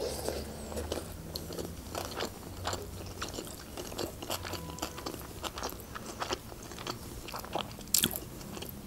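Close-miked chewing of a sushi roll topped with chuka seaweed salad: irregular wet mouth smacks and soft crunches, with one sharper click near the end.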